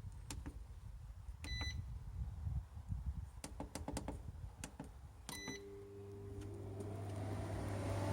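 Portable air conditioner's control panel beeping twice amid a few clicks, then the unit starting up: a steady hum sets in after the second beep and a fan motor rises in pitch as it spins up, growing louder.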